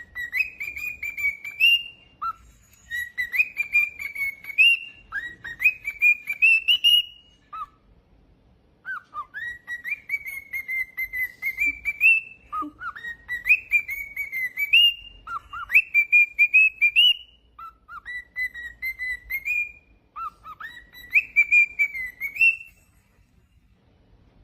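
Cockatiel singing: a long run of whistled phrases, each a string of short notes climbing in pitch, with a short pause partway through and the song stopping shortly before the end.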